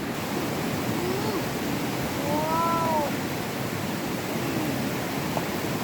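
Steady rush of flowing water, with a faint short call that rises and falls about two and a half seconds in.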